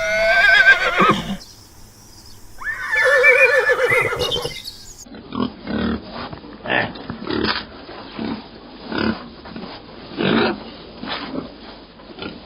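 Two horse whinnies, each a loud wavering call lasting one to two seconds. They are followed by a run of short, separate animal calls, about two a second, from a different clip.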